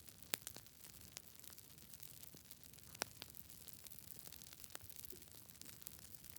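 Wood fire burning in a fireplace, crackling faintly over a soft hiss, with sharp pops about half a second in and about three seconds in.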